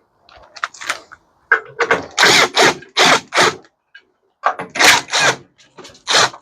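Ratchet wrench with a 15/16 socket clicking in quick back-and-forth strokes, loosening a fastener on a scrap microwave. The strokes come in two runs with a short pause between them.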